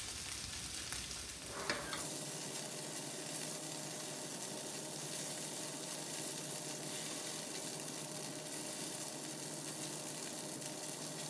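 Cubes of extra-firm tofu, coated in starch, frying in hot sesame oil in a nonstick skillet over high heat: a steady, even sizzle as the pieces brown and crisp.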